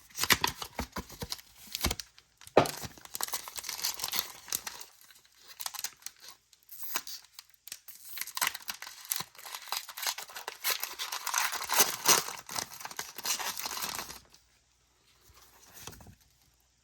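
A Pokémon booster pack's foil wrapper being torn open and crinkled: a long run of ripping and crackling that stops about fourteen seconds in.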